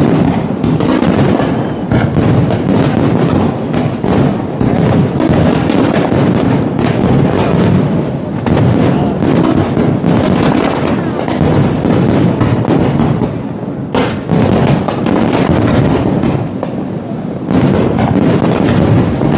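Aerial fireworks from a large display bursting in a dense, continuous barrage of bangs and crackle, easing slightly near the end with one sharp bang standing out about two-thirds of the way through.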